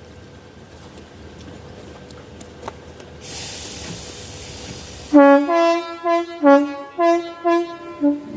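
A train's two-tone horn sounded in a rapid run of short blasts, stepping between a low and a high note about twice a second, starting about five seconds in. A hiss comes just before the horn.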